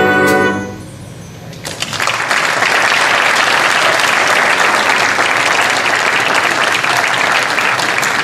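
A band's final held chord dies away in the first second, and after a brief pause an audience breaks into steady applause.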